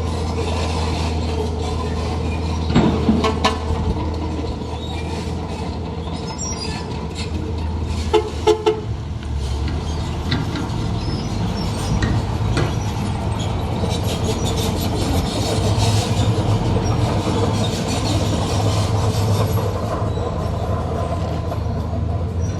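Heavy diesel construction machinery engine running steadily under load, with a cluster of loud metallic clanks about three seconds in and three more about eight seconds in.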